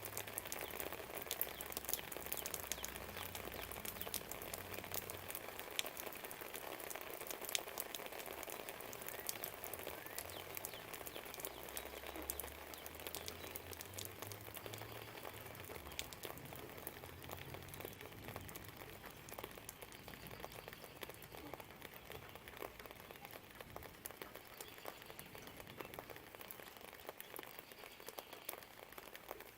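Rain falling, with dense close drips pattering and ticking over an even hiss. The drips thin out somewhat in the last third. A low distant rumble swells under it near the start and again about halfway through.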